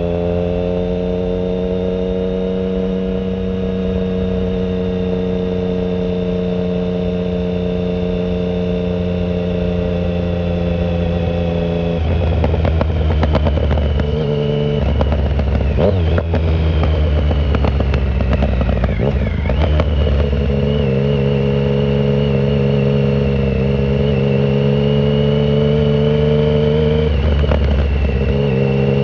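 2009 Triumph Speed Triple 1050's inline-three engine through a shorty Competition Werkes exhaust with no silencer, heard on the move from the rider's pocket. It runs steady at first, then goes through several gear changes and revs from about twelve to twenty seconds in, runs steady again, and changes once more near the end.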